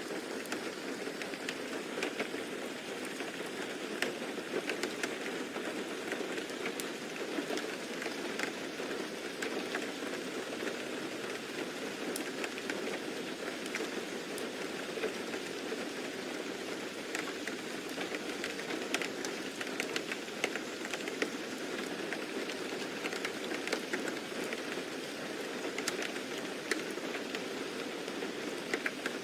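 Steady rain falling on a surface, an even hiss dotted with many small, irregular drop ticks.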